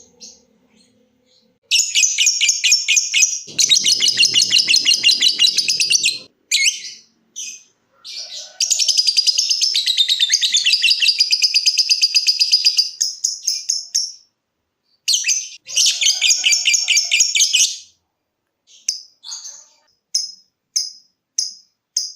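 Lovebird 'ngekek': long, rapid, chattering trills in several bouts of a few seconds each, the longest about five seconds, with short separate chirps near the end.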